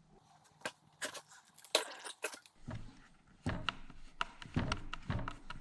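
Irregular clicks and knocks of chainsaw parts and tools being handled, a few at first and more frequent from about halfway through.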